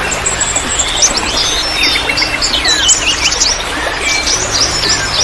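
Many songbirds chirping and calling over one another in quick, sweeping notes, over a steady trickle of running water; the mix is made as a lure to get caged birds singing back.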